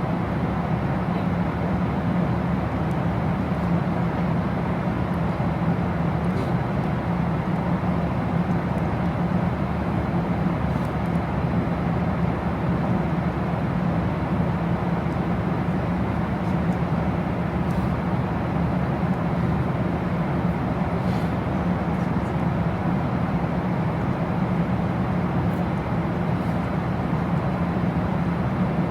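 Steady low rumble and hum inside a moving vehicle's cabin, unchanging throughout.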